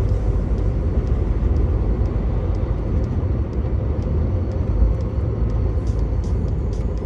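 Truck engine running steadily under road and tyre noise, a continuous low rumble, with faint light ticks about every half second.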